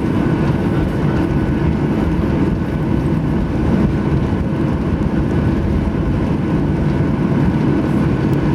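Boeing 737-800's CFM56 engines running, heard inside the passenger cabin as a steady low rumble with a faint hum; the level and pitch hold steady.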